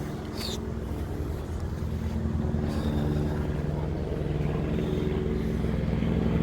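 Polaris Ace 150's small engine idling through a new aftermarket muffler: a steady, fast low pulsing hum that grows slowly louder.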